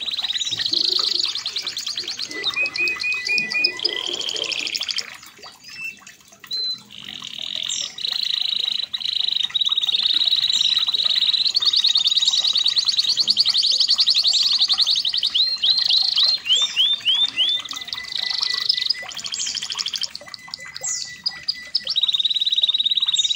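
Red canary singing a long song of fast trills and repeated chirping phrases, with some quick upward-sweeping notes, broken by a short pause about five seconds in before the trilling resumes.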